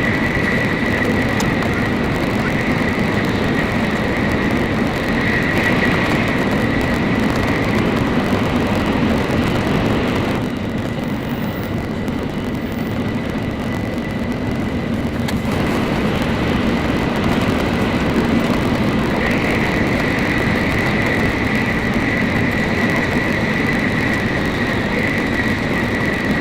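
Nozomi Shinkansen at speed, heard from inside the passenger cabin: a steady rumble and rushing noise with a thin high whine over it. About ten seconds in, the sound turns duller and a little quieter for about five seconds, then returns.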